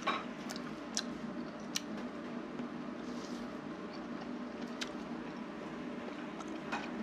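A person chewing a mouthful of ramen, with a few short sharp clicks scattered through, over a steady low hum in the room.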